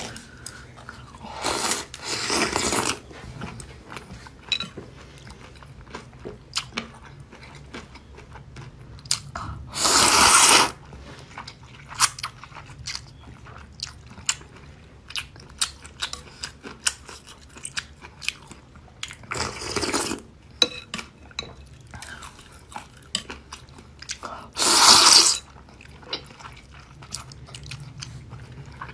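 Close-miked eating of spicy fire-chicken instant noodles: continuous wet chewing with many small mouth clicks, broken four times by a loud slurp about a second long.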